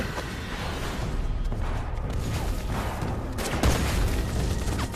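Battle-scene gunfire: a steady low rumble with scattered sharp rifle shots, the loudest about three and a half seconds in.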